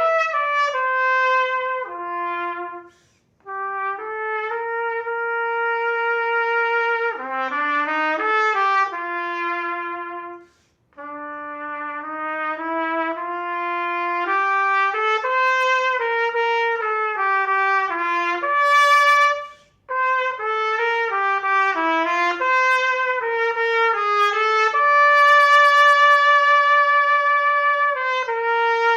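Unaccompanied solo trumpet playing a slow melody, one note at a time. The phrases are broken by three short breaths, and it ends on a long held note.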